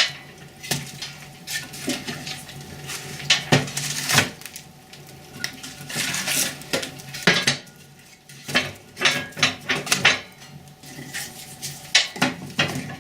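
Firewood logs being loaded into a cast-iron fireplace firebox, knocking and clattering against the metal and against each other in a string of sharp, irregular impacts.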